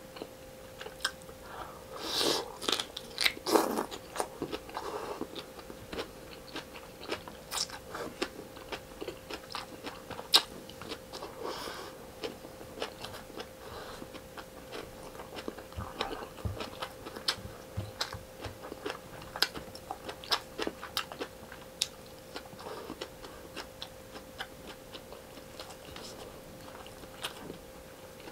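Close-miked chewing of a person eating rice and fried tilapia by hand, with many small wet mouth clicks and crunches, heaviest about two to five seconds in. A faint steady hum runs underneath.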